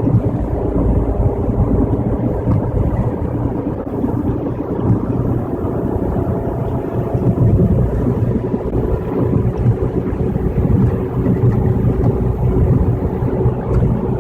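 Steady road noise of a car cruising on a wet freeway, heard from inside the cabin: tyre and engine noise with a faint steady hum.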